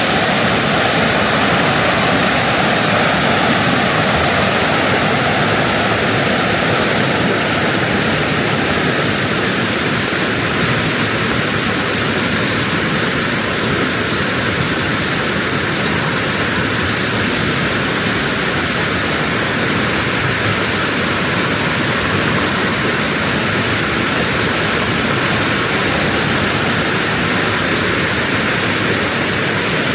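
Loud, steady rush of water, an even noise that does not change.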